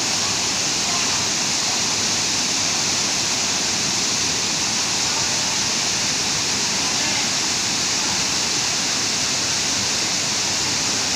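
Waterfall rushing steadily, a constant loud roar of falling water.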